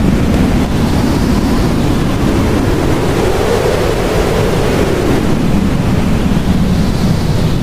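Blizzard wind blowing hard and steadily, its low rush slowly rising and falling in pitch as gusts come and go.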